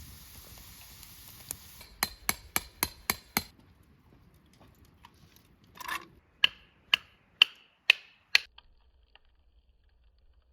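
Repeated sharp strikes in two runs: six quick blows, then after a pause five slower, louder blows about half a second apart, each with a short ring.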